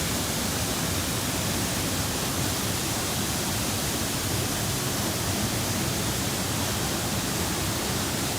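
Waterfall: falling water making a steady rushing noise, unchanging throughout.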